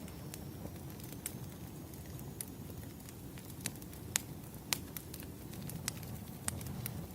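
Firewood burning: a steady low rumble of the fire with scattered sharp crackling pops, the loudest about four seconds in.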